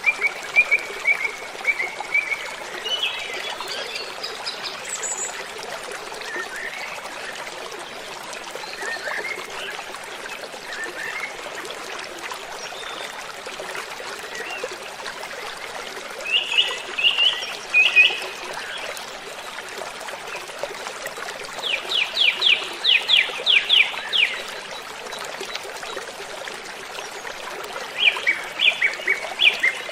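Waterfall running steadily, with birds singing over it. A short trill comes right at the start and scattered chirps follow. A quick run of repeated notes comes about three-quarters of the way in, and another near the end.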